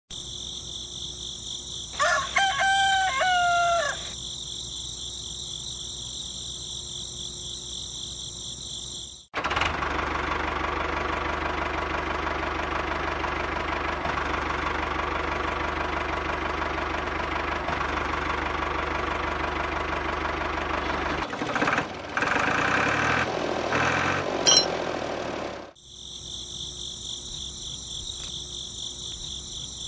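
Crickets chirring steadily, with a rooster crowing once about two seconds in. From about nine seconds a louder, steady mechanical whirring with a low hum takes over, changing near twenty-one seconds with one sharp click near the end, then stops suddenly and the crickets are heard again.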